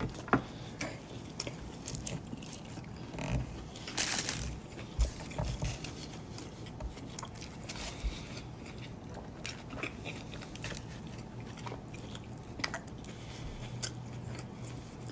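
A man biting into and chewing a chicken tender snack wrap close to the microphone: soft crunches and wet mouth clicks, with a louder burst about four seconds in.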